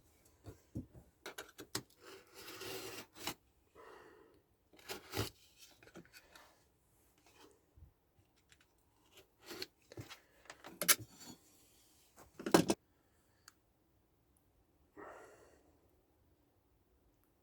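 Intermittent scraping, rustling and clicking of hand work on a workbench, with two sharp knocks about eleven and twelve and a half seconds in.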